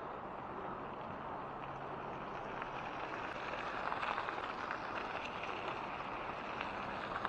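Steady rolling hiss of cyclocross bike tyres (700 x 32 mm Maxxis Refuse) on a gravel trail, a little louder about four seconds in, with a few faint ticks.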